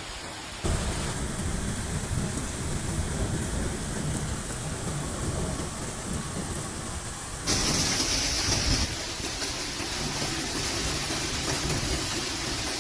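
Storm sounds of heavy rain and gusting wind, with wind rumbling on the microphone. The sound changes abruptly twice, about a second in and again about halfway through.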